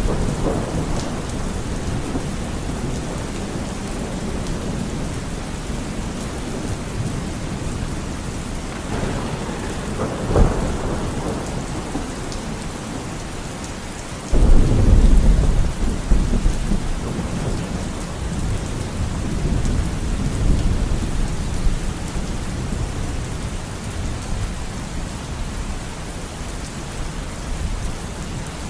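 Steady rain with thunder: a short sharp crack about ten seconds in, then about halfway a sudden loud low rumble that rolls on for several seconds before fading back into the rain.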